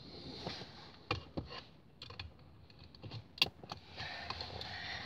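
A few sharp clicks and soft rustling from things being handled inside a car, with a louder scuffling stretch near the end.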